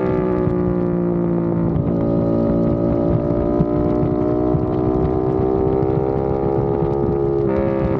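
Aprilia RS660's parallel-twin engine running through a non-resonated Mivv X-M1 Evo exhaust while riding. The revs climb slowly under steady throttle, with a gear change about two seconds in and another near the end.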